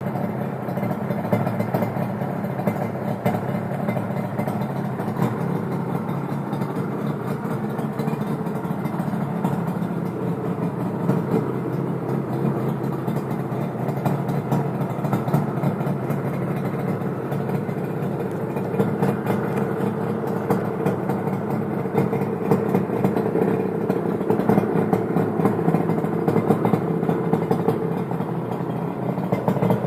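Yamaha RD350's two-stroke parallel-twin engine idling steadily through aftermarket Dogster exhausts, getting a little louder and more uneven in the last several seconds.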